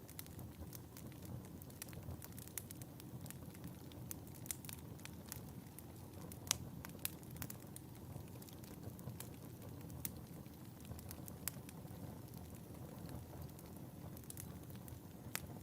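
Wood fire burning in a fireplace: a steady low hiss of flames with irregular sharp crackles and pops, one louder pop about six and a half seconds in.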